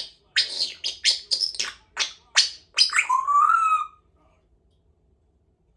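Congo African grey parrot calling: a quick run of about eight short, sharp chirps, then one longer whistle rising slightly in pitch, ending about four seconds in.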